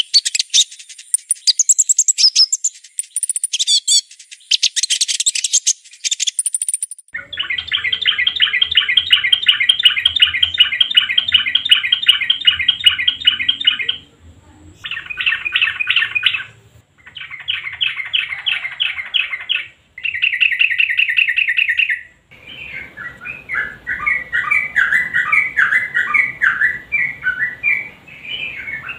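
Sooty-headed bulbul (trucukan) song recordings spliced together: a high-pitched chattering for about the first seven seconds, then loud rapid trilled phrases broken by brief gaps, then varied chirping phrases near the end.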